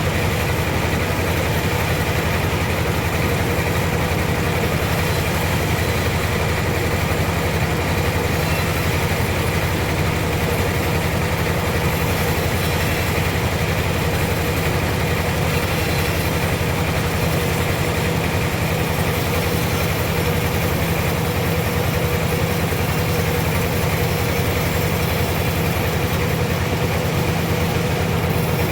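Sawmill machinery running steadily, a constant engine-like hum with a steady whining tone and no letup.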